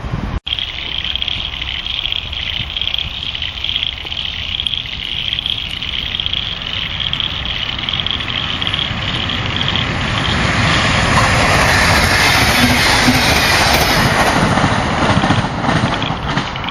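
A train passing: a steady high hiss at first, then the train's noise builds about ten seconds in and stays loud until it eases near the end.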